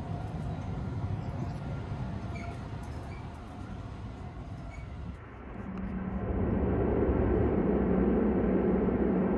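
Running noise of a 285-series sleeper train heard from inside the car: a steady rumble that grows louder about six seconds in. It then settles into a steady low hum over a rushing noise as the train runs past a station.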